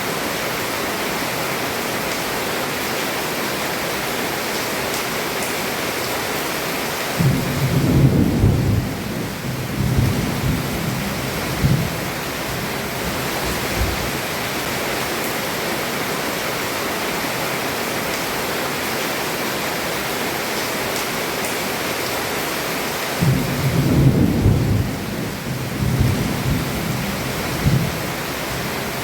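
Heavy rain falling on a roof in a steady hiss, with two rolls of thunder rumbling for several seconds each, one about seven seconds in and one near the end.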